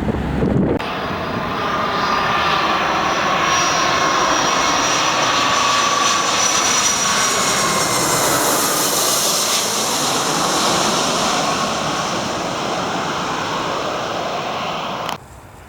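Jet airliner's engines going by: a loud rush of engine noise with a thin whine over it, at its loudest around the middle and easing a little before cutting off abruptly near the end.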